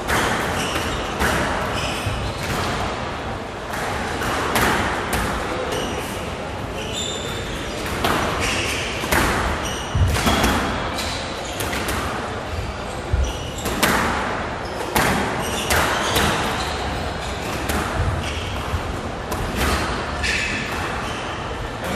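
Squash rally: the ball smacking off rackets and the court walls many times at an irregular pace, with short squeaks of court shoes on the floor.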